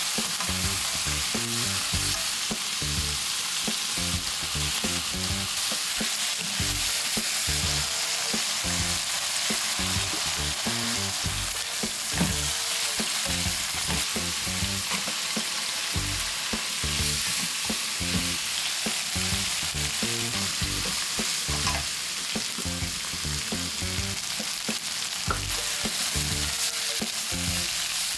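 Food sizzling steadily in a hot pan while it is stirred, with irregular low knocks of a utensil against the pan.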